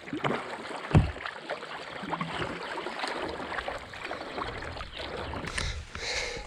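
Kayak paddling: water splashing and dripping off the paddle with many small sharp drips, and a low thump about a second in.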